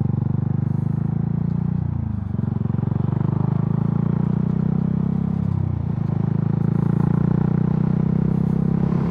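KTM 690 Duke's single-cylinder engine accelerating away from a stop. The engine note dips briefly at two gear changes, about two and six seconds in.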